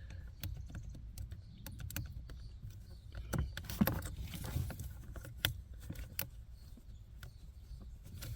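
Scattered clicks and knocks of plastic dashboard trim being handled as a clip is released and a blower-area cover is pulled down, with a louder stretch of rattling and scraping about four seconds in.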